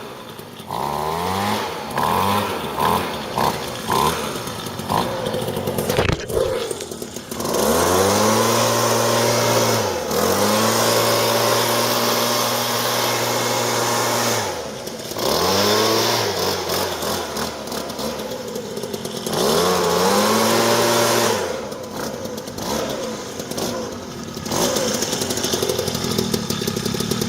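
Two-stroke engine of a Homelite Yard Broom 2 leaf blower running just after a cold start in 5-degree weather. It is blipped a few times, then revved up and down repeatedly, with several long high-speed holds and a lower idle between them.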